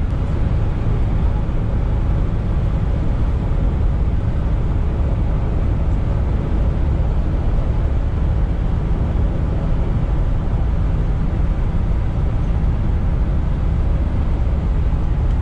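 Steady engine and road noise inside the cab of a van driving at highway speed.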